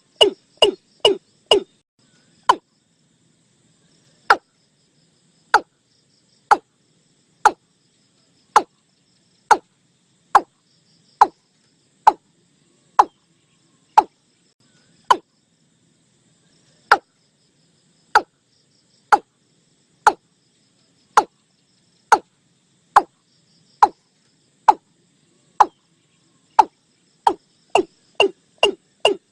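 Repeated call of the bird known in Thai as nok ee-klung: short, sharp single notes, each falling steeply in pitch. They come in a quick run at the start and again near the end, and about one a second in between, with two brief pauses.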